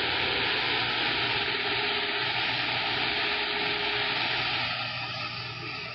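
CB radio receiver hiss: steady static from the radio's speaker with no station coming through, easing slightly near the end.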